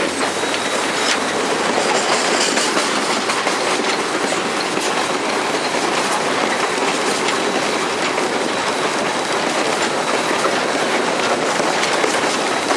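Steady running noise in the cab of Southern Railway 630, an Alco 2-8-0 steam locomotive under way, with faint clicks of the wheels over the rail joints.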